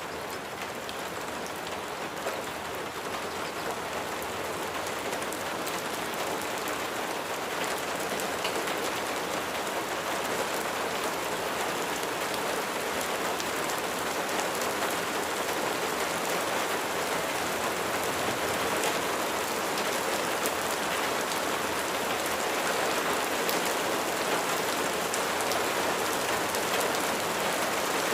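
Steady rain falling on a surface: an even, dense hiss with scattered individual drop ticks, growing slightly louder over the stretch.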